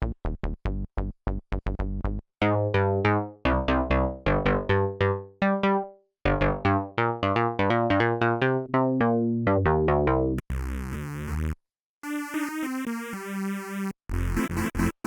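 Polymax software synthesizer playing analog-style presets: a sequence of short, sharply gated pitched notes, then some longer held notes. About ten seconds in it changes to a buzzier sustained patch with hiss before short staccato notes return.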